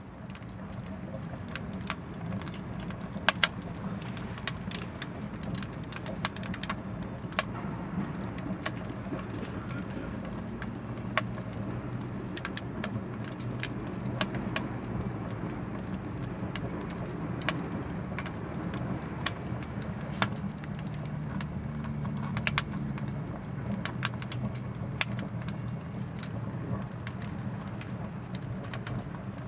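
Anevay Frontier Stove Plus wood-burning stove burning oak logs: a steady low rush of flame with frequent sharp crackles and pops at irregular intervals.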